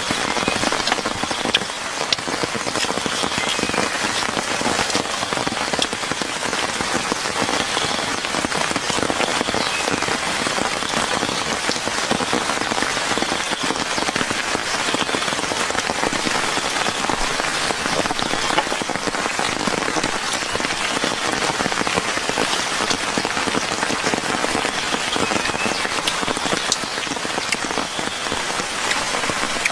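Steady rain falling, a dense even patter of drops that keeps up throughout, with a faint short high call repeating every second or two.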